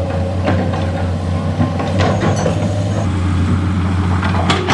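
Heavy diesel truck engine running steadily, with a few sharp metallic clanks and knocks over it; the loudest knock comes near the end.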